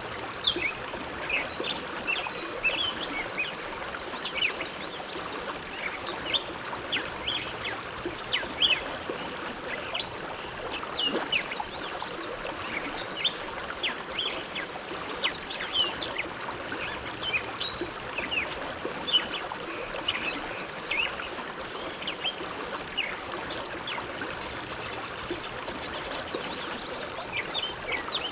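The Bow River flowing: a steady rush of water with many quick, high little splashes and chirps scattered through it.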